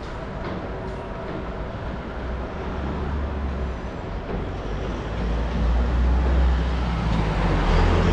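Low, steady rumble of city vehicle noise heard from a moving bicycle, with a faint hum. It grows louder in the second half as something large passes close by.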